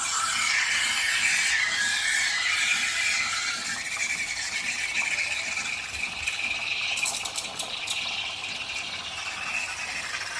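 Espresso machine steam wand frothing milk in a pitcher: a steady hiss with a high, slightly wavering tone over it, easing a little after the first few seconds, with a few light clicks about seven seconds in.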